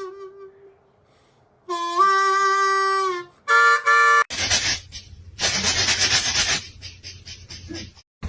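Reedy harmonica-like tones: a held note with a pitch step near its start, then a short chord of several notes, followed by several seconds of harsh, breathy noise in broken bursts.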